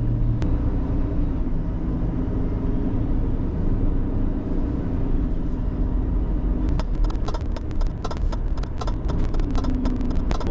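Renault T480 truck's diesel engine running as the lorry pulls away, heard from inside the cab, with a single sharp click about half a second in. From about two-thirds of the way through, a rapid, irregular clatter of sharp ticks joins the engine.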